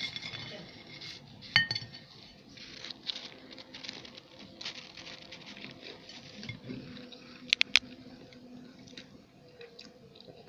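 Tableware clinking with the rustle of food being handled: one ringing clink about a second and a half in, and a quick run of sharp clicks about three quarters of the way through.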